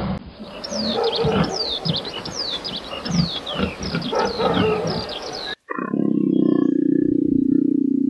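Many birds chirping, a dense run of quick calls that fall in pitch, over a rough lower animal noise. About five and a half seconds in, this cuts off and a steady low hum begins.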